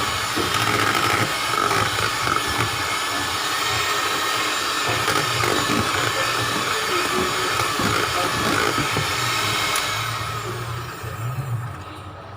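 Electric mixer running steadily as it beats cheesecake batter, then winding down and stopping near the end.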